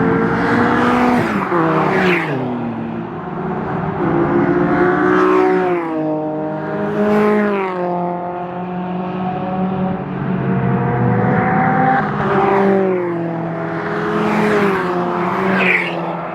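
SEAT Leon Cupra Mk2's turbocharged 2.0 four-cylinder petrol engine under hard acceleration on track. The revs climb and then drop sharply several times as it shifts gears.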